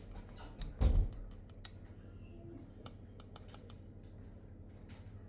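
Sharp clicks and light taps of kitchen utensils during food preparation, with one dull thump about a second in.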